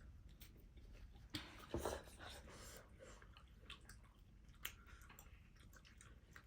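Quiet eating sounds: soft chewing of noodles with scattered small clicks, and one brief louder mouth sound a little under two seconds in.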